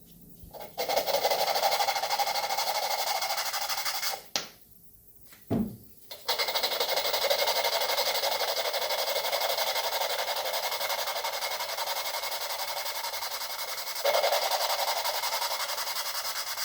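Engine valves being lapped into their seats in a cylinder head: a steady gritty grinding with a fast, even rhythm. It stops about four seconds in, resumes about two seconds later, and gets a little louder near the end.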